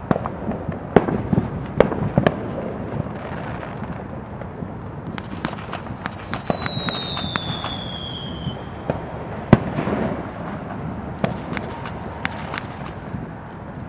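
Neighbourhood fireworks and firecrackers going off on all sides: many sharp pops and bangs at irregular intervals over a steady rumble, with the loudest bang a little after halfway. A long whistle falls in pitch over about four seconds, starting about four seconds in.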